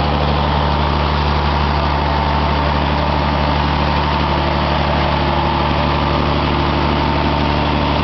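Toyota 3S four-cylinder engine, converted from electronic fuel injection to run on 100% biogas, running at a steady speed.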